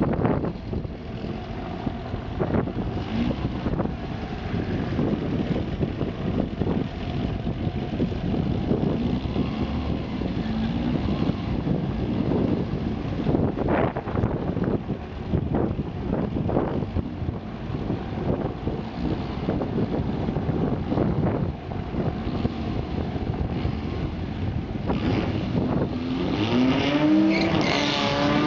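VW Beetle drag car's air-cooled engine running at the start line with uneven throttle blips. In the last few seconds it revs up, the pitch rising, as the car stages for a drag launch.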